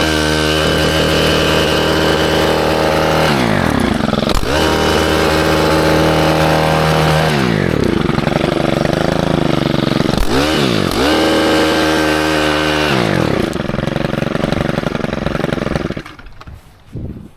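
Small gas engine of a garden tiller revving up to high speed, holding there for a few seconds and dropping back, three times over as the tines work through compacted, rocky soil. The engine dies down near the end.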